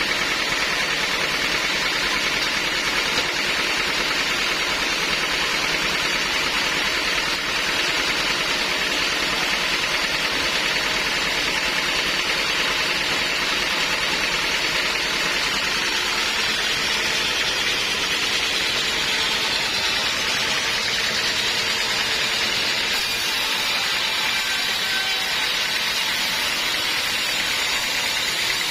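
Sawmill machinery running steadily: a constant, loud mechanical noise with no breaks.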